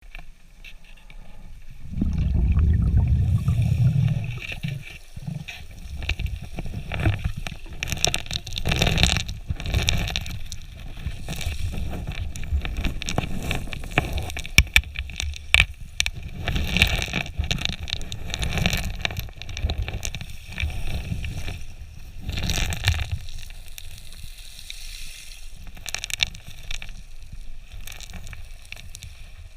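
Underwater water noise: an uneven rushing and gurgling of moving water and bubbles, in repeated surges, loudest a couple of seconds in.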